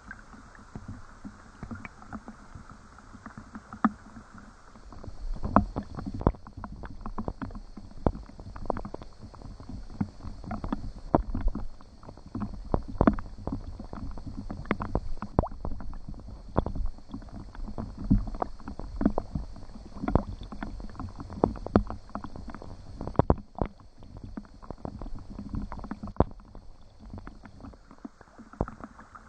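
Water splashing and dripping in irregular knocks, several a second, over a low rumble; it grows busier and louder about five seconds in and eases off near the end.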